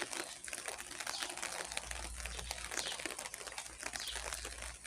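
Light rain falling and dripping, a dense patter of small drops. A bird calls now and then in high, downward-sliding notes.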